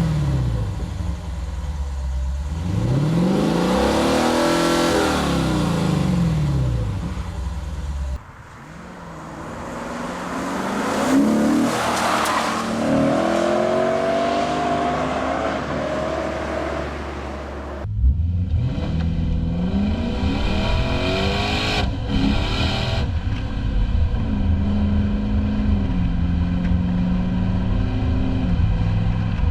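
2015 Lexus RC F's 5.0-litre V8 revving and accelerating: the engine note rises and falls near the start, then swells into a louder run about ten seconds in with pitch steps like gear changes. After an abrupt change at about eighteen seconds come more short revs and steady running.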